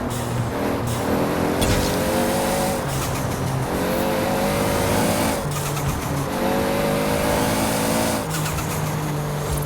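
Toyota Supra RZ with a big single turbo accelerating hard through the gears, the engine note climbing in three pulls. At each shift there is a burst of turbo blow-off hiss and fluttering chatter, the longest near the end.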